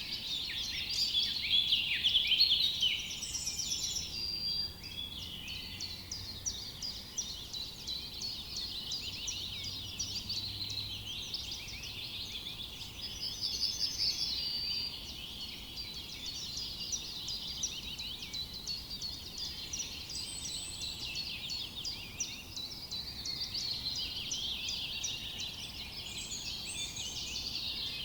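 A dense chorus of many songbirds chirping and singing at once, quick overlapping notes all through, loudest in the first few seconds.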